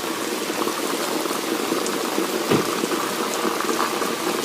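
Heavy rain pouring down in a steady hiss, with one brief thump about halfway through.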